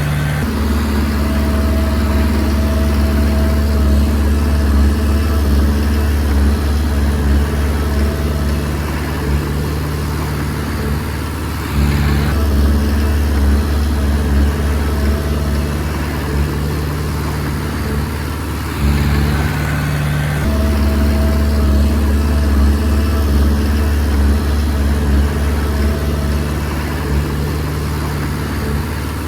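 Diesel engine of a small Komatsu D20P bulldozer running hard as it pushes soil. It eases off briefly twice, about a third and two thirds of the way through, then pulls back up to full load.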